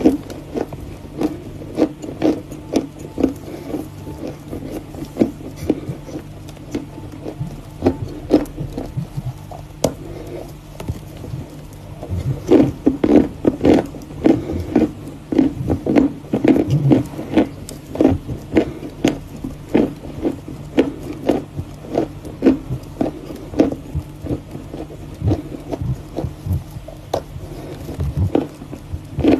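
Close-miked biting and chewing of Volokonovka chalk: a steady run of dry, crackly crunches several times a second, growing denser about twelve seconds in.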